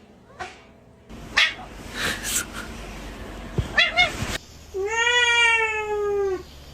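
Domestic cat meowing: a short meow about four seconds in, then one long drawn-out meow. A few soft knocks come before them.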